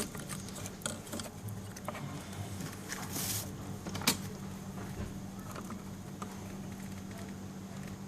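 Scattered light metallic clicks and a short scrape of hand tools and scooter parts being worked by hand, over a steady low hum. The sharpest click comes about four seconds in.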